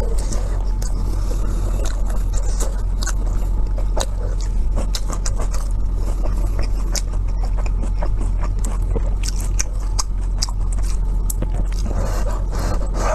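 A person chewing and biting food close to the microphone: irregular wet clicks and smacks. A steady low hum runs underneath.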